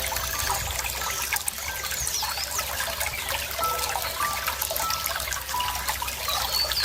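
Running water trickling steadily, with a few short, high bird calls that sweep down in pitch, about two seconds in and again near the end.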